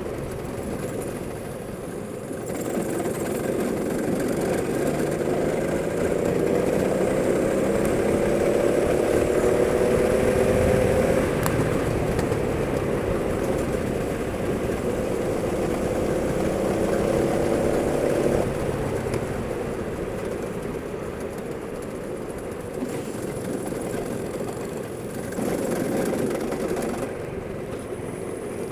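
Go-kart engine running under throttle, its pitch climbing steadily twice as it accelerates, then falling back as it eases off.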